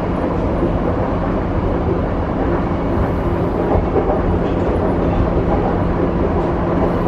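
Running noise heard inside a JR East E235-0 series electric train: steady rumble of wheels on rail, with a steady hum from its Mitsubishi full-SiC VVVF inverter traction motors coming in about two seconds in and a higher hum joining about halfway through.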